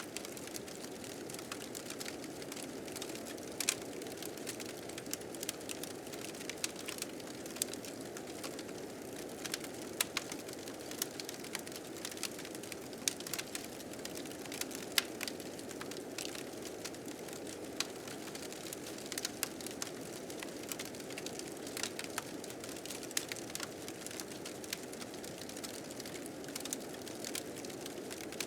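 Wood fire crackling with frequent sharp, irregular pops over the steady, low rush of blizzard wind.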